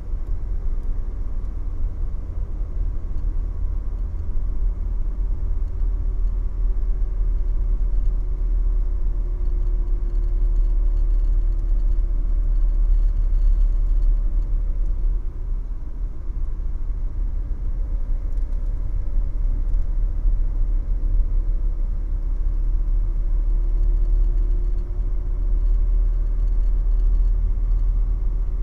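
Mercedes-Benz W123 300TD's 88 hp five-cylinder diesel heard from inside the cabin, cruising at low speed: a heavy, steady rumble of engine and road. A faint engine tone slowly sinks and then climbs again, twice, as the revs ease off and build.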